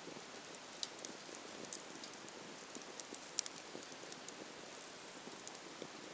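Small wood fire crackling: a steady hiss with scattered sharp pops and snaps at irregular moments.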